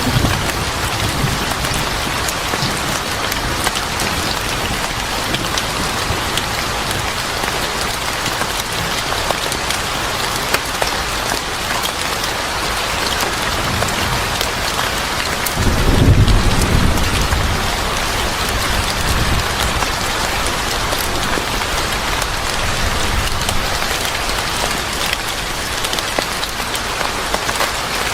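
Steady heavy rain falling, with a low rumble of thunder swelling and fading a little past halfway.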